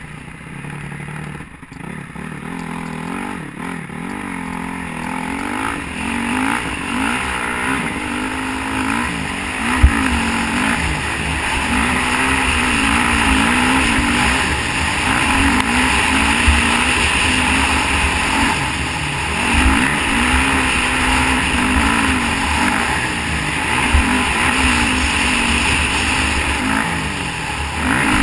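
Honda CRF450 four-stroke single-cylinder dirt bike engine being ridden hard, its pitch climbing and dropping again and again as the throttle is opened and shut. A few sharp knocks, the loudest about ten seconds in.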